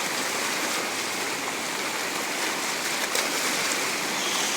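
A river swollen by heavy rain, its fast water rushing in a steady, even wash of noise.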